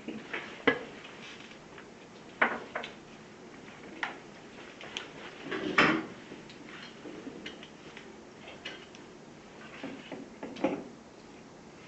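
Scattered clinks and knocks of containers and utensils being handled and set down, about eight separate strikes with the loudest about six seconds in.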